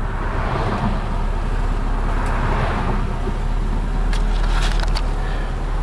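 A 1972 BMW 2002's four-cylinder engine running under way, with tyre and wind noise heard from inside the car that swells and eases. A few light clicks come near the end.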